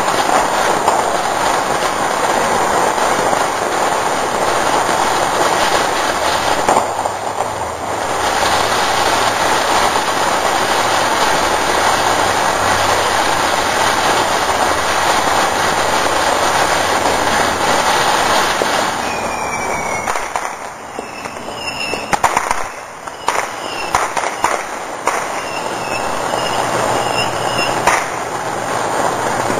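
Consumer fireworks going off: a steady, dense hissing crackle for about twenty seconds, which then thins into scattered sharp crackles and short high whistles.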